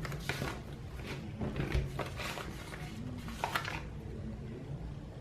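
Paper planner stickers being peeled from their sheet and pressed down on planner pages: a series of short papery rustles and scratches.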